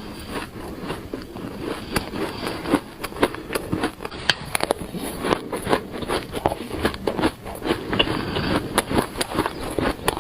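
Close-up crunching of shaved ice being chewed, a dense run of irregular crisp crunches and crackles with no pause.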